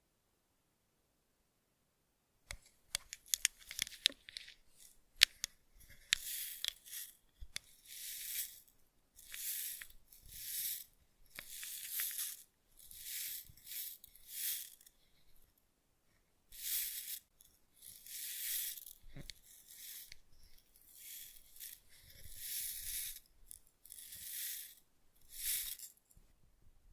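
Close-microphone ASMR facial-care sounds: after a short silence, a cluster of crackling clicks and taps, then a long series of soft, hissing swishes, about one a second.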